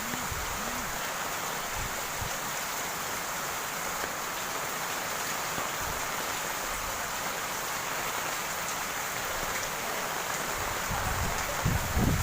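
Steady heavy rain falling and splashing on surfaces, with a few low bumps near the end.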